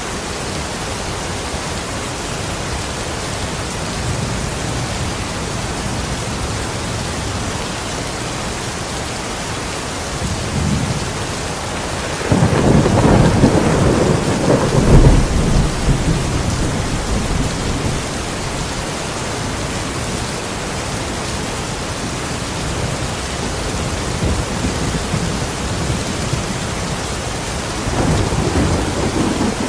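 Steady rain with thunder: a long rumble of thunder swells about twelve seconds in and peaks a few seconds later, and another rumble begins near the end.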